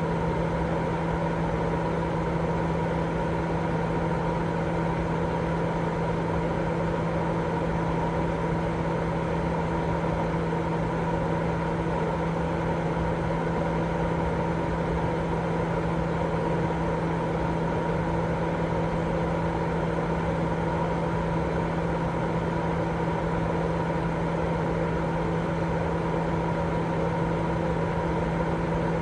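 Continuous, unchanging white noise for baby sleep, with a steady low hum running through it.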